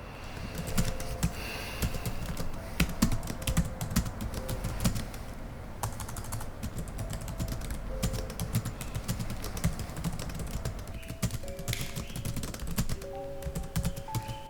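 Rapid, irregular clicking like keys being typed on a keyboard, over soft background music.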